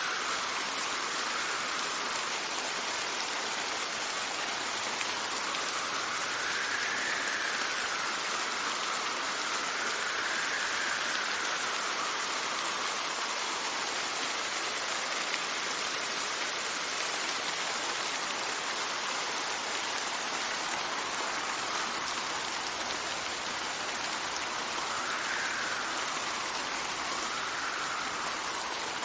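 Steady rain with gusts of wind that swell and fade several times.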